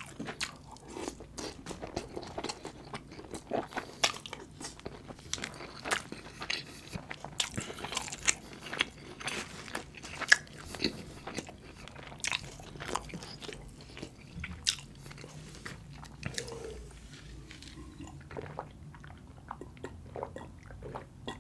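Close-miked chewing of a mouthful of butter chicken and rice, full of sharp mouth clicks. The clicks thin out and grow quieter for the last five seconds or so.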